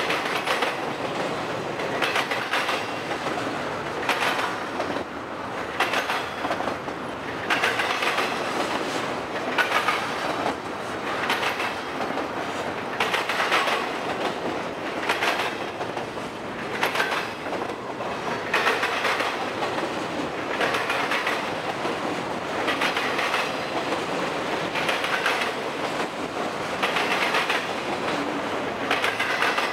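Double-stack intermodal well cars of a freight train rolling past: a steady rumble of steel wheels on rail, broken every second or two by clacks as the wheel sets cross the rail joints and the diamond crossing.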